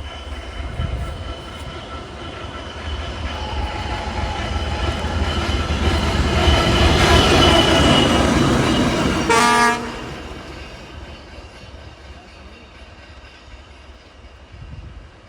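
ChME3 diesel-electric shunting locomotive passing light engine: a low diesel rumble builds to its loudest about seven to eight seconds in. A short horn blast sounds at about nine and a half seconds, and the rumble then fades away.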